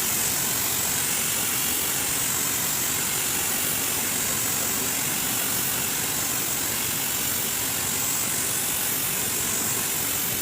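Steady rushing hiss of air in a car paint booth, even and unbroken, strongest in the high treble.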